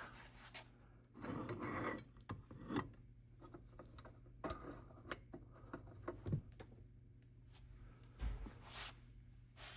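Faint rubbing and scattered light clicks of hands working a Variac's knob to bring the voltage up slowly, over a steady low hum, with a soft low thump about eight seconds in.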